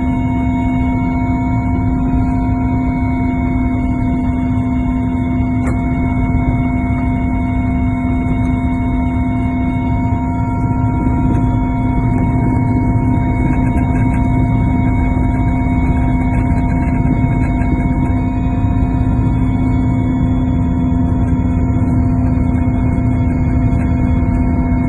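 Helicopter cabin noise: a loud, steady rumble with several constant whining tones.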